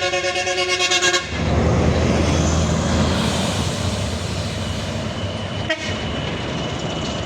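A truck's air horn sounds a chord of several steady tones and cuts off about a second in. A heavy diesel truck engine then runs loudly, with a brief knock near the end.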